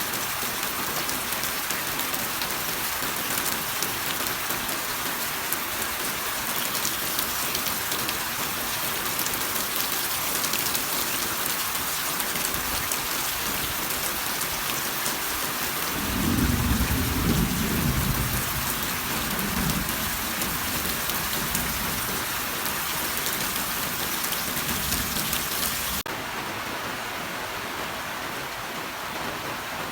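Heavy rain falling steadily in a dense hiss, with a low rumble of thunder rising about halfway through and dying away over several seconds. Near the end the rain abruptly turns to a softer, duller hiss.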